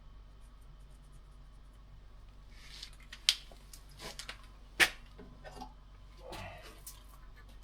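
Chainsaw chain being handled: a few metallic clicks and soft rattles, with two sharp clicks about a second and a half apart midway through.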